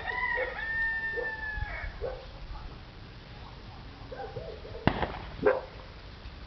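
A rooster crowing once, a call that ends in a long held, slightly falling note. About five seconds in, two sharp knocks half a second apart.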